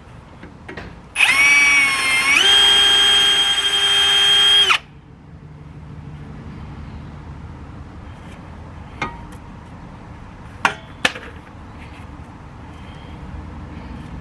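Electric drill running at speed for about three and a half seconds, its whine dipping briefly in pitch under load and then holding steady before it stops suddenly. It is drilling out a brake rotor retaining screw. A few sharp clicks follow near the end.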